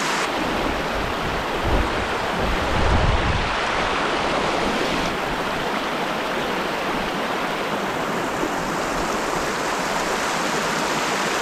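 Water rushing steadily over a small creek spillway, a constant hiss, with a few brief low rumbles about two to three seconds in.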